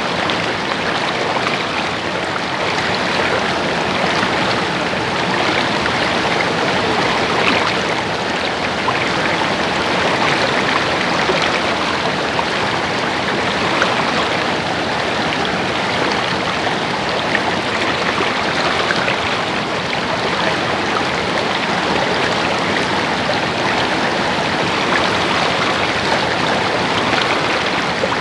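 Stream water babbling and splashing over rocks, a steady, even rush with small splashes throughout.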